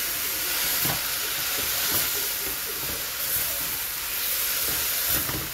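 Tomatoes, lemongrass and spices sizzling with a steady hiss in a hot wok, stirred with a spatula that now and then scrapes or taps the pan; this is the stir-fried base for a Thai hot pot, cooking until the tomatoes soften.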